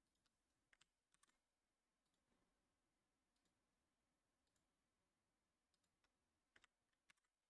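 Near silence with a few faint clicks, in pairs, about a second in and again near the end.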